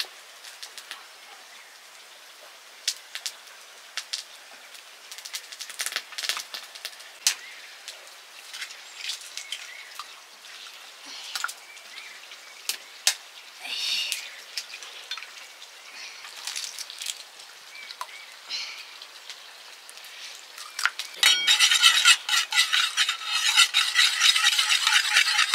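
Scattered clinks and taps of cooking utensils, then from about three-quarters of the way through a loud, dense sizzling as food is fried in a hot pan.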